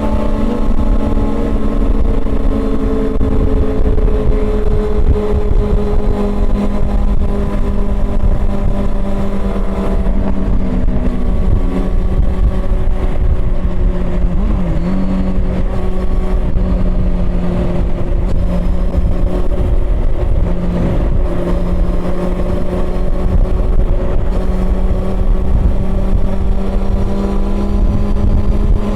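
Honda CB400 Super Four's inline-four engine running under way at fairly steady revs, its pitch sinking slowly through the middle and rising again near the end.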